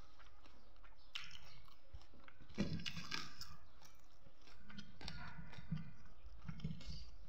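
Close chewing and mouth sounds of a person eating rice and chicken curry, irregular smacks and clicks, with one sharper click about two and a half seconds in.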